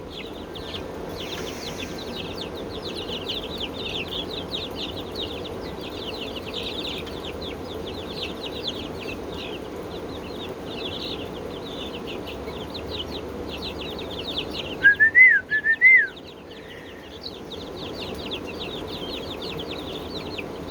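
Chickens calling: dense, rapid high chirping throughout, with one loud call of three rising-and-falling notes about fifteen seconds in.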